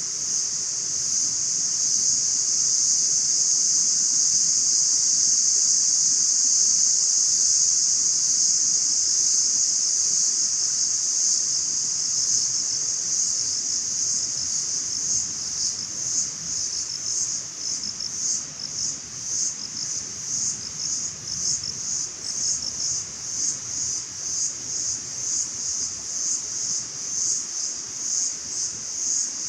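Insects in a forest chorus, making a loud, high, continuous shrill that breaks into a fast, even pulsing about halfway through.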